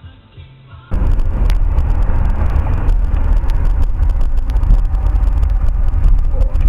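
Loud, steady low rumble of a moving car, engine and road noise picked up by a dashcam microphone inside the car. It starts abruptly about a second in, after a moment of faint music.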